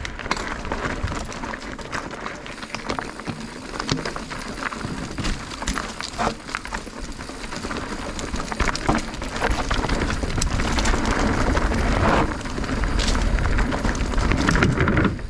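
Mountain bike rolling over a rocky trail: tyres crunching over rock and gravel with many scattered clicks and knocks from the bike, over a steady low rumble, growing louder in the second half.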